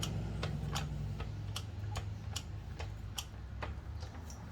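Sharp ticks, about two a second and slightly uneven, over a steady low hum.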